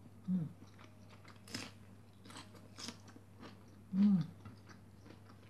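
Crisp crunching and chewing while eating a fresh cucumber slice, with a few sharp crunches in the middle. A short closed-mouth hum is heard just after the start, and a louder one comes about four seconds in.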